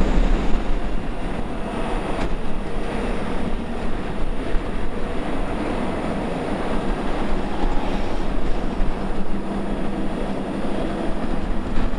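Wind buffeting the microphone over the steady running of a Honda XRE 300's single-cylinder engine at highway cruising speed, with road and tyre noise mixed in.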